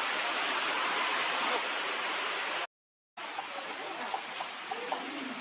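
Steady hiss of falling rain, broken by a sudden half-second dropout about halfway through; after it the rain is a little lighter, with scattered drop ticks.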